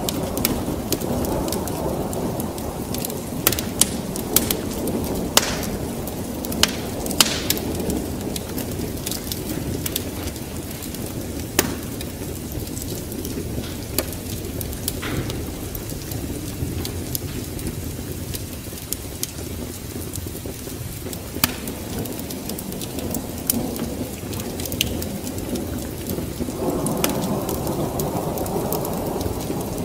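Wood fire crackling with scattered sharp pops, over a steady low rumble of rain and thunder that swells slightly near the end.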